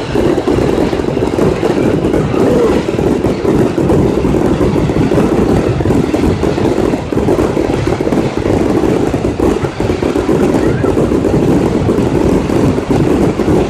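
Fireworks display going off, many bursts blending into a loud, steady rumble.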